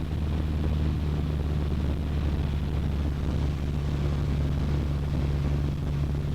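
Cessna 152's four-cylinder Lycoming O-235 engine and propeller droning steadily, heard inside the cockpit.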